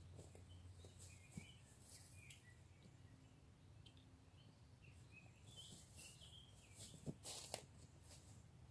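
Near silence with faint, scattered bird chirps, and a few sharp clicks close together about seven seconds in.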